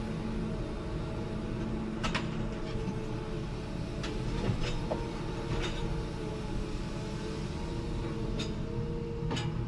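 A diesel engine of forestry machinery running steadily, with scattered sharp metallic clicks and knocks about two, four to six, and eight to nine seconds in.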